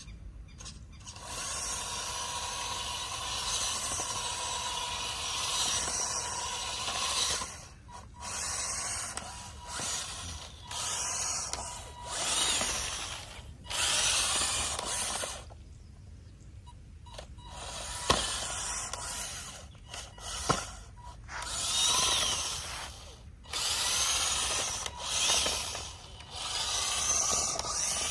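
Small DC gear motor of a homemade model tractor whirring as it drives, starting and stopping every few seconds in runs of one to three seconds.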